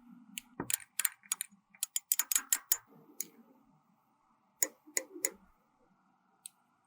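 Sharp clicks and taps of small hard objects being handled: a quick flurry in the first three seconds, three more about a second later, and a single click near the end.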